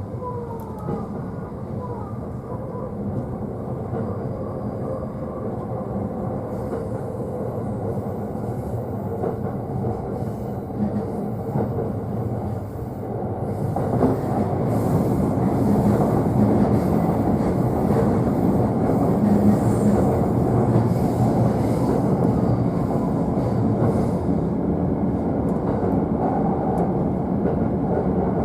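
JR East E531 series electric train running, heard from inside the upper deck of a double-deck car: a steady rumble of wheels on rail with light clicks. A few faint gliding tones come near the start. The noise grows louder about halfway through.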